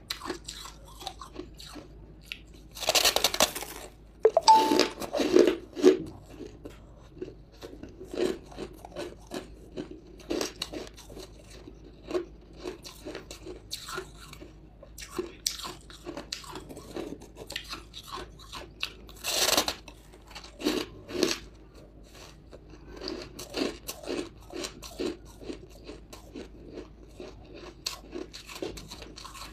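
Close-up bites and chewing of hard buckwheat chunks, with loud crunches. Big bites come about three seconds in, around five seconds and near twenty seconds, with quieter chewing crunches between.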